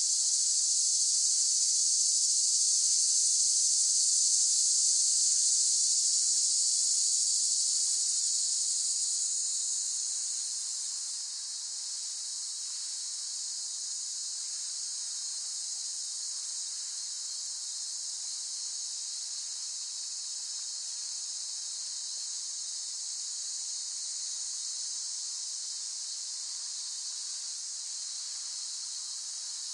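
Cicadas droning in a steady, high-pitched buzzing chorus. The chorus is louder at first and settles to a lower, even level about a third of the way in.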